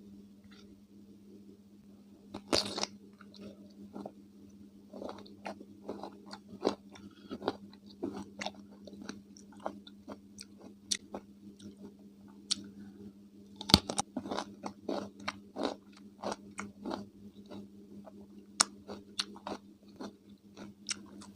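Close-miked eating of crunchy raw cucumber: two sharp bites, one a few seconds in and one about two-thirds through, each followed by rapid crunching chews. A faint steady low hum runs underneath.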